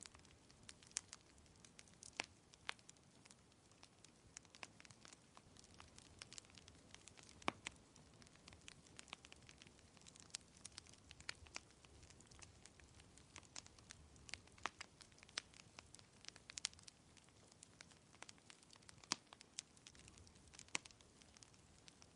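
Wood fire crackling in a fireplace: irregular sharp pops and snaps, several a second at times, over a faint low hiss.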